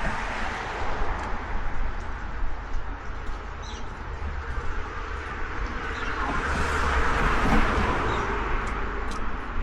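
Outdoor street ambience: steady traffic rumble, with a vehicle passing that swells and fades about seven seconds in, and a few faint bird chirps.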